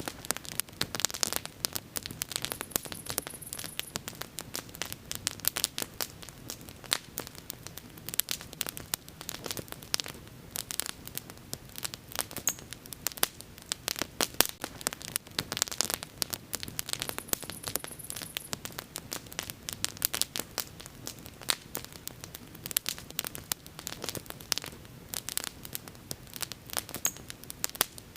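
Wood bonfire burning, crackling with dense, irregular pops and snaps over a steady low background of the flames.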